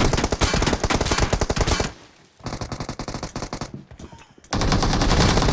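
Rapid automatic gunfire in a team shooter video game: a loud sustained burst, a short break, a quieter burst, then loud firing again from about four and a half seconds in.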